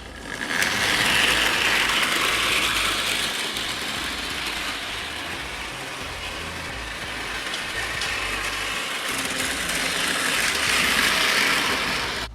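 A model Thomas the Tank Engine train running on its track, the electric motor and wheels making a steady whirring rattle. It grows loud soon after starting, fades somewhat in the middle as it moves away, and swells again near the end before cutting off.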